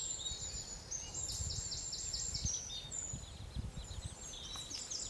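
Birds chirping in quick runs of short, high, repeated calls over a faint low rumble.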